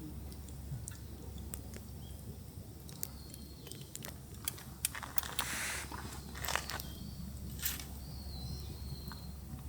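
Scattered sharp clicks and crackles over a steady low hum, with a brief rustle about five seconds in.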